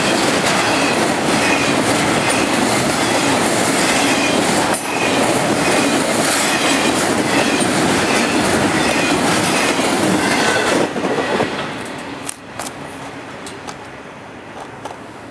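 Norfolk Southern intermodal freight train's loaded well cars rolling past at speed: a steady, loud rumble and rattle of wheels on rail. About eleven seconds in, the last car goes by and the noise drops away quickly to a much quieter tail.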